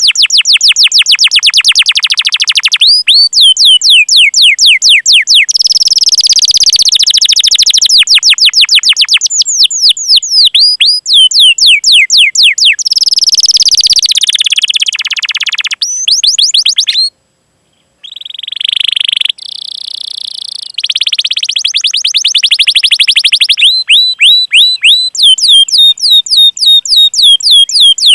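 Canary singing: long fast series of high chirps, each sliding quickly downward, several a second, alternating with denser rolling trills. The song breaks off for about a second a little past halfway.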